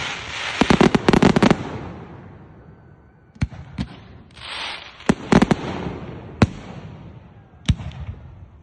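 Fireworks going off: a rapid crackling volley of bangs about a second in, then scattered single bangs every second or so, with a short hiss between them.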